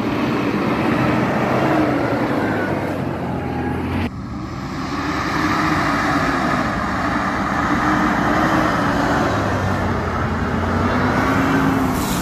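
Off-road 4x4's engine running under load, its revs rising and falling again and again as it works over rough ground. The sound changes abruptly about four seconds in.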